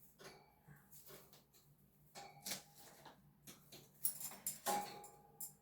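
Budgie pecking and tearing at a hay ball toy: faint scattered clicks and rustles, busiest about four to five seconds in.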